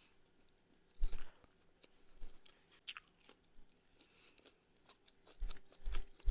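A person biting and chewing food close to the microphone, with irregular crisp crunches about a second in, a few more in the middle, and a cluster near the end.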